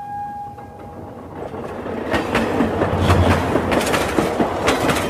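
Train sound effect: a steady horn tone fades out in the first second, then a train runs on rails with a rising, rhythmic clatter of wheels.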